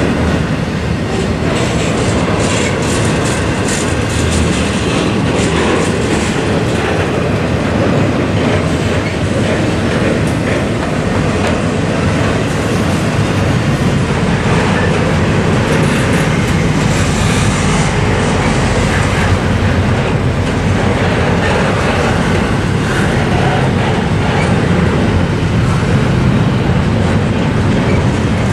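Double-stack intermodal freight train's container well cars rolling past at a level crossing: a loud, steady noise of steel wheels running on the rails.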